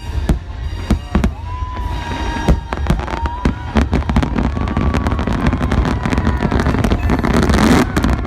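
A fireworks display with many sharp bangs in quick succession over the show's music, rising to a dense crackling burst near the end.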